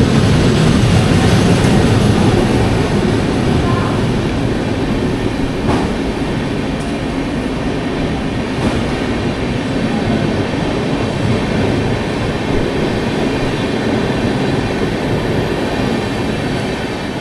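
A long passenger train's coaches rolling past the platform as the train pulls out of the station and gathers speed: a steady rumble of wheels on rail with occasional rail-joint clicks, slowly getting quieter.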